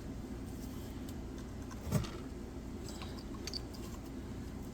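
Small handling noises of tools and chainsaw parts: a single dull knock about two seconds in and a few faint light clicks a little later, over a low steady background hum.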